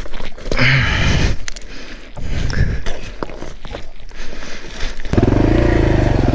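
A motorcycle engine fires up about five seconds in, revs up and down, and settles into a fast, even running beat. Before it starts there are scattered knocks, scuffs and short grunts as the rider wrestles with the bike.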